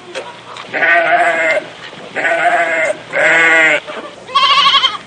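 A goat bleating four times in a row, each call about half a second to a second long with a trembling, wavering pitch.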